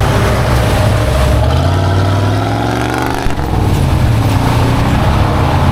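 Off-road vehicle engine running hard and revving, its pitch rising and falling, with a loud rushing noise over it.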